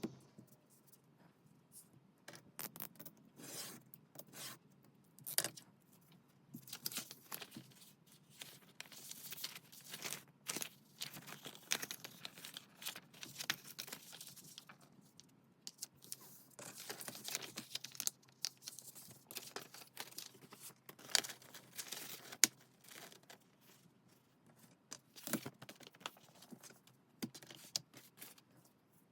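Paper being torn and handled at close range: a run of short, irregular ripping and rustling strokes with brief pauses between them.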